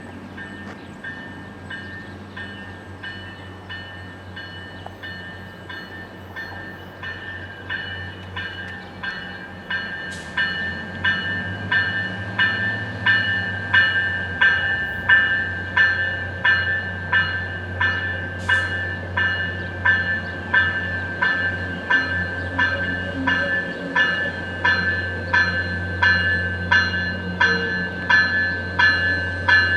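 A bell ringing at a steady pace, a little over one strike a second, growing louder as an MBTA commuter train approaches, with a low locomotive rumble building near the end.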